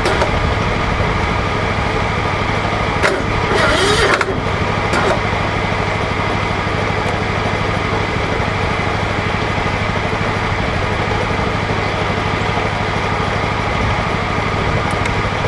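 Lawn tractor engine running steadily at idle, with a brief rattling noise about three seconds in.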